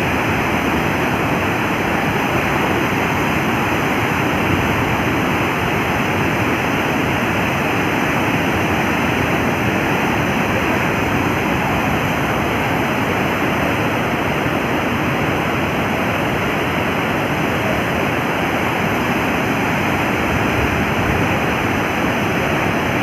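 Heavy water rushing steadily out of the opened gates of a dam swollen by continuous rain.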